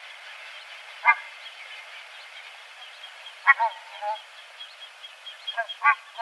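Bird calls: a few short pitched calls at irregular spacing, one about a second in, a pair around three and a half seconds and a quick cluster near the end, over a faint steady background of higher chirping.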